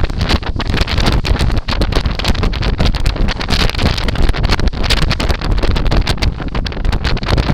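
Wind buffeting the microphone aboard a moving boat: a constant loud rushing with a heavy low rumble and rapid flutter, mixed with the boat's running noise.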